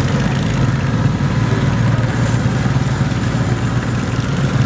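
Garden tractor engine running steadily at an even speed.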